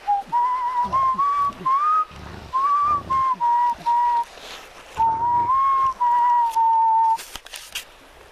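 A person whistling a simple tune badly, in two phrases of held notes that step up and down, stopping about seven seconds in.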